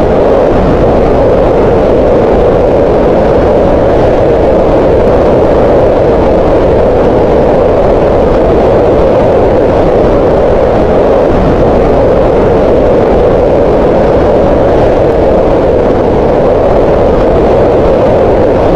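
Green noise: a steady, unchanging hiss whose energy is concentrated in the middle range around 500 Hz, fuller and softer than white noise.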